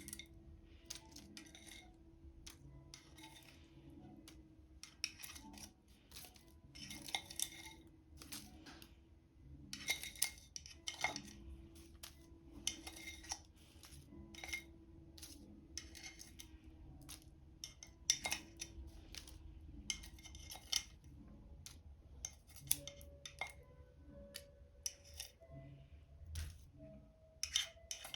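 Scattered small clicks, snips and light clinks of hands working with kitchen tools, coming in short clusters, over a faint steady tone.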